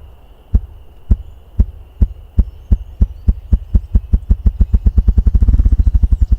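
Ruffed grouse drumming, the male's display: low thumps, each one beat of his wings, starting about two a second and speeding up into a rapid 'brrrr' roll near the end.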